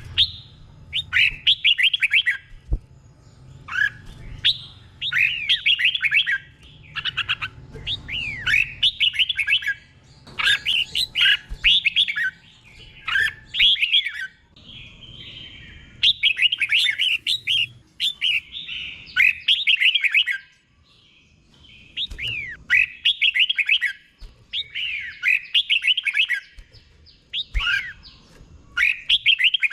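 Red-whiskered bulbul singing its doubled song: short, bright, warbled phrases repeated every second or two, with a brief pause about two-thirds of the way through.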